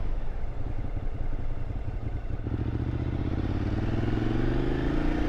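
Motorcycle engine running under wind noise, its pitch rising as it accelerates from about halfway through.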